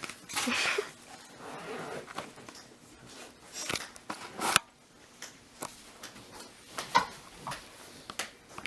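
Rustling and handling noise with scattered sharp clicks and knocks, the loudest rustle in the first second.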